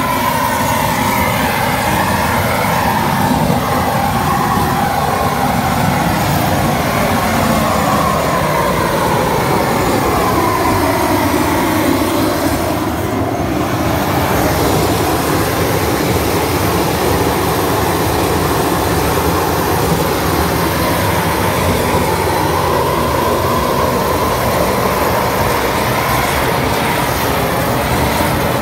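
Propane weed-burner torch burning with a steady, loud rushing noise, its tone slowly wavering up and down.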